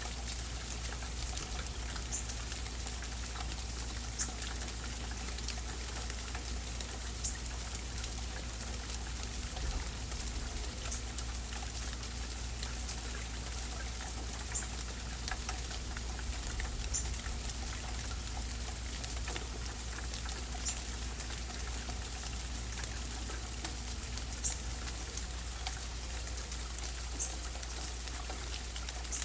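Steady rainfall with scattered individual drips and taps on surfaces, over a low steady hum.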